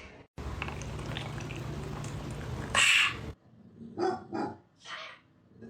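A steady low hum with a short loud noisy burst about three seconds in, then three short pitched animal calls in the last two seconds.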